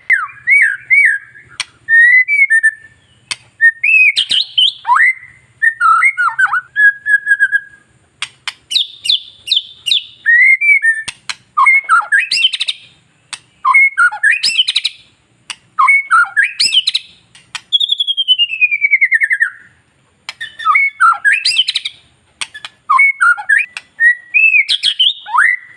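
White-rumped shama (murai batu) singing a varied song in short bursts of rich whistles, trills and sharp clicks. About eighteen seconds in comes one long falling whistle.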